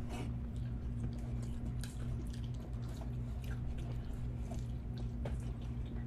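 People chewing chicken wings, with scattered small mouth clicks and smacks, over a steady low hum.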